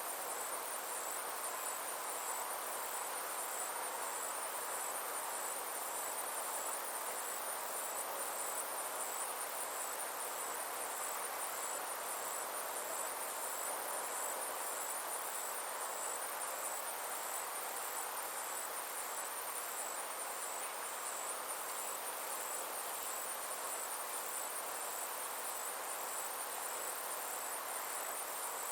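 Summer insects calling steadily: a high, evenly pulsed trill over a soft, constant hiss of background chorus.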